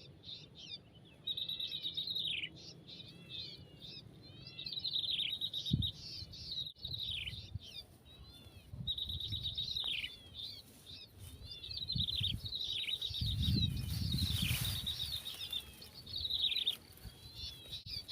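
Small songbird calls: a rapid high trill that breaks into short downward slurs, repeated every two or three seconds, with a few low knocks and rumbles in the middle.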